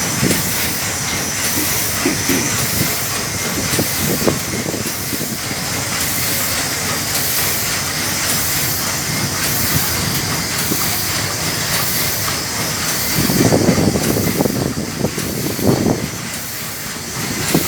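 Hundred-year-old steam engine running: a steady steam hiss with a regular pulsing to it, and louder low rumbling from about thirteen to sixteen seconds in.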